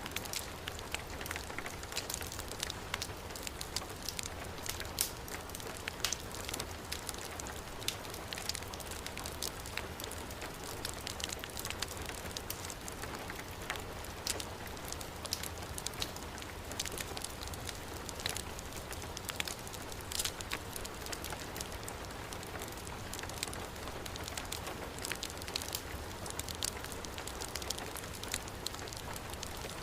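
Heavy rain falling steadily, with a wood fire crackling: many sharp pops and snaps scattered over the steady hiss of the rain.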